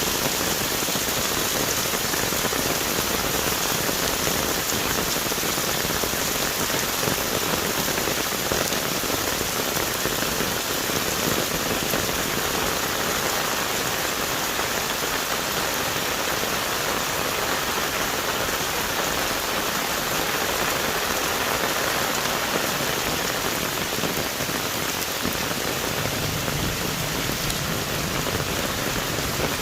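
Heavy tropical rain pouring steadily onto the forest canopy and leaves, a dense, even hiss. A faint low rumble joins near the end.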